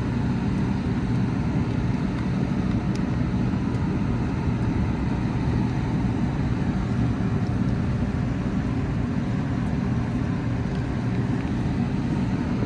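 Steady low rumble with a faint hum of running machinery, unchanging throughout.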